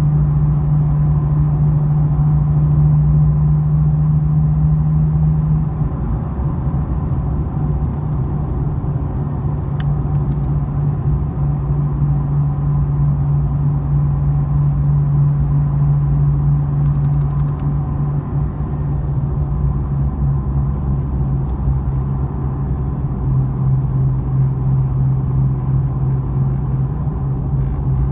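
Exhaust drone from a 2010 Nissan 370Z's 3.7-litre V6 running steadily under light load at about 2500–3000 rpm through a Fast Intentions resonated TDX exhaust. The drone fades in and out about every half second, a 'wah-wah' reverberation that the owner suspects comes from how the exhaust gases leave the system.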